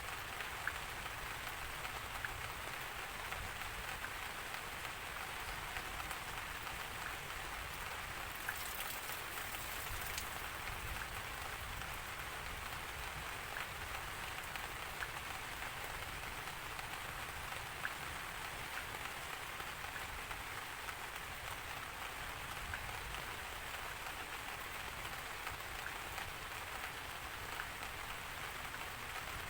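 Steady rain falling, an even hiss with scattered single drops ticking on a surface.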